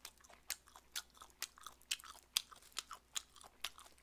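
Close-up chewing and biting on braised pig's trotter (jokbal), a run of short, irregular clicks a few times a second.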